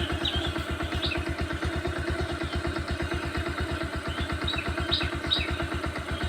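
A small engine running steadily with a fast, even throb, while a few birds give short high chirps over it, several of them close together near the end.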